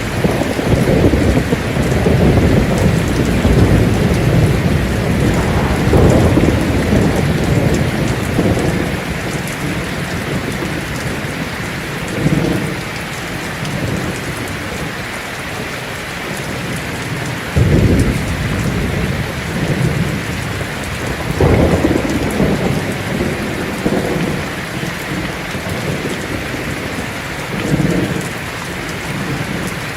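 Heavy rain drumming steadily on a tin roof, with thunder: a long rolling rumble over the first third, then four shorter, sudden claps spread through the rest.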